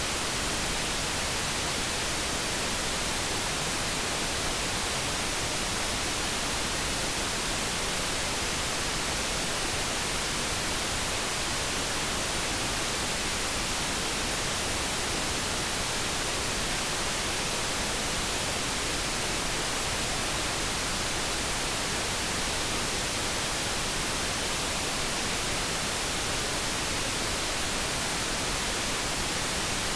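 Generated light brown noise: a steady, unchanging hiss.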